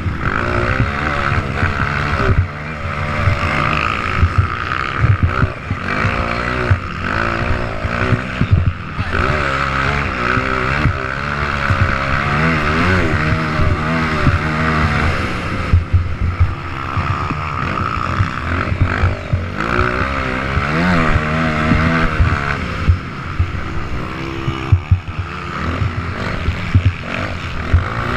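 Several motocross bikes running on a dirt track, engines revving up and down in overlapping waves as riders accelerate and ease off.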